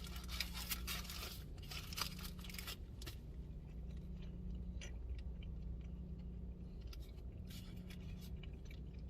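Wrapper paper rustling and crinkling as a fast-food burger is handled and opened up, busiest in the first three seconds, then small scattered clicks and rustles, over a steady low hum.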